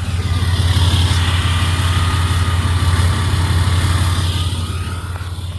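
Truck engine running through a straight-piped exhaust with the muffler deleted: a steady deep exhaust rumble, swelling slightly about half a second in and easing off near the end.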